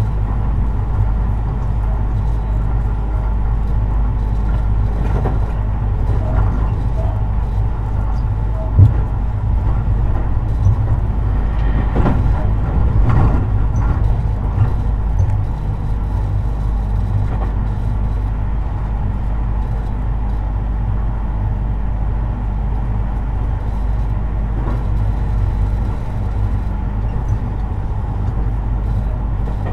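Tobu 50090 series electric train running, heard inside the passenger car near the underfloor equipment: a steady low rumble of wheels on rail with a few knocks, the sharpest about nine seconds in.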